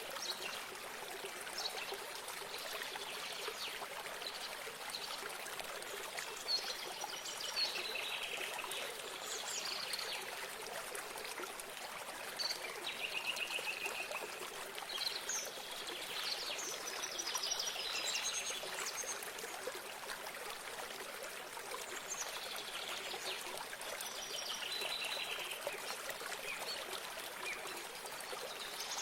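Running water trickling steadily, with songbirds singing short, quick chirping phrases over it several times.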